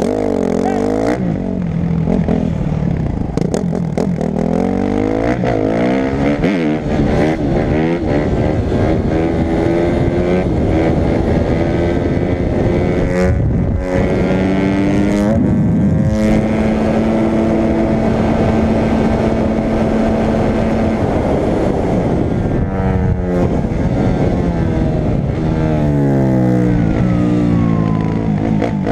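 Motorcycle engine revving hard and accelerating through the gears, its pitch climbing and dropping again and again, with a steadier stretch at high speed partway through.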